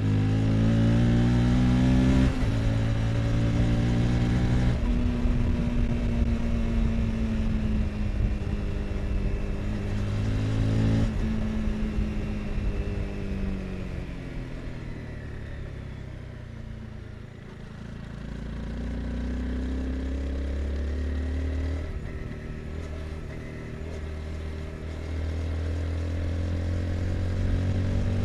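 Honda CBR 250R's single-cylinder four-stroke engine under way. The revs climb and drop sharply at upshifts about two and eleven seconds in. Past the middle the revs fall away as the bike slows, then climb again.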